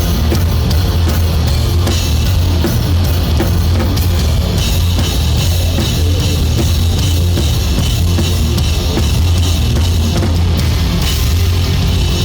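Live rock band playing loudly: drum kit with a steady stream of drum and cymbal hits over distorted electric guitars and bass.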